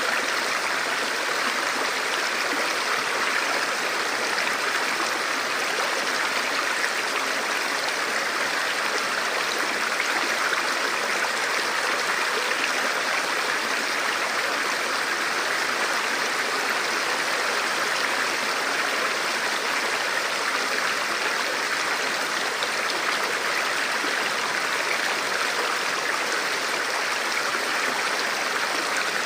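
Forest river flowing steadily over rocks: a constant rushing and babbling of water.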